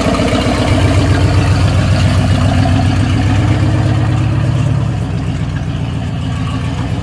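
1982 Jeep CJ7's engine running steadily, a little quieter from about five seconds in.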